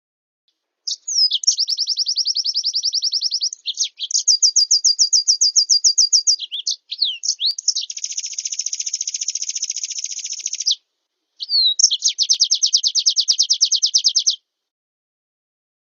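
Small songbird song from a cage-bird training ('masteran') recording, mixed from white-eye, canary and blackthroat song: four long, fast, high-pitched trills of one to three seconds each, with a few brief chirps and short pauses between them.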